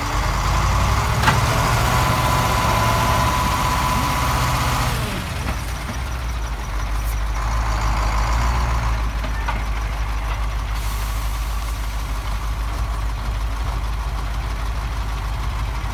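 Heavy vehicle engine running steadily with a low rumble. A higher whine over the first five seconds fades out about five seconds in, and there is one sharp click about a second in.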